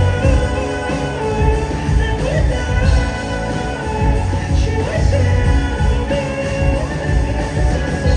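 Rock band playing live, a singer's voice over drums, bass and guitars.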